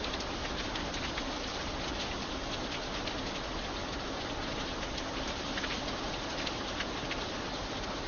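Steady light rain falling, an even hiss with many separate drops ticking close by.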